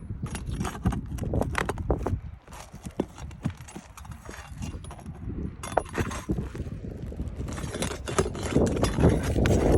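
Pry bar working under roof shingles to free the nails: irregular metal clinks, knocks and scraping, getting louder near the end.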